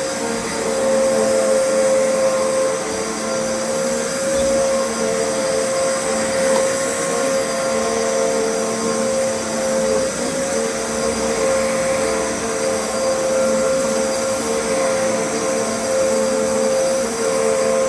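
Vacuum cleaner running steadily, its motor giving a constant whine over a rush of air.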